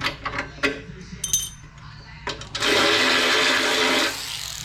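Light metal clinks of tools and parts, then a power tool runs for about a second and a half, spinning out a bolt on the wood chipper.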